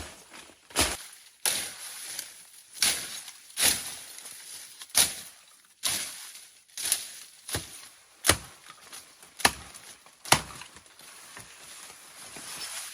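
A blade chopping: about a dozen sharp strikes at an uneven pace of roughly one a second. Near the end a steady hiss rises.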